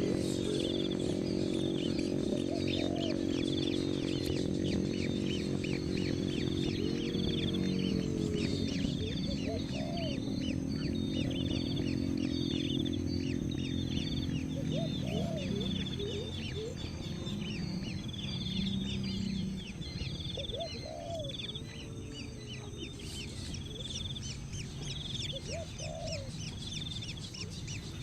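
Birds calling: a steady run of short, high chirps throughout, with lower, clucking calls every few seconds and a low hum in the first half.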